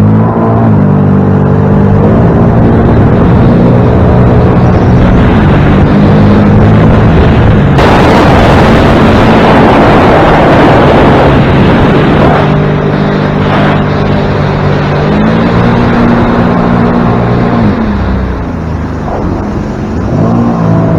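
A watercraft's engine running hard close to the microphone, revving up at the start. About eight seconds in, a loud rush of wind and spray covers its note for four seconds. Near the end it throttles back and then revs up again.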